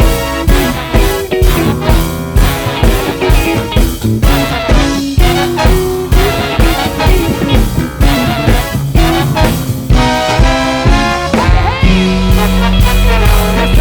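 Live funk band playing an up-tempo groove with a strong, even beat. About twelve seconds in, the beat drops away to a held chord over a sustained bass note.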